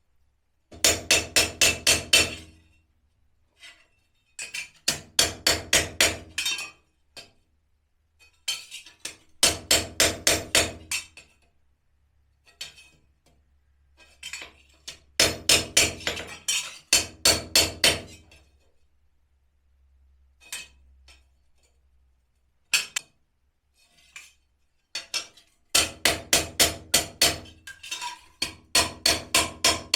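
Hammer blows on ringing steel, in quick runs of about seven strikes a second lasting a second or two, with short pauses between runs.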